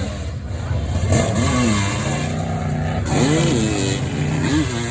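Motorcycle engine running steadily with short throttle blips, the pitch rising and falling about three times.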